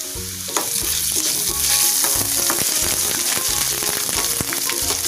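Sliced onions and ginger paste frying in hot oil in a pan, sizzling steadily, with a spatula scraping and tapping against the pan as they are stirred.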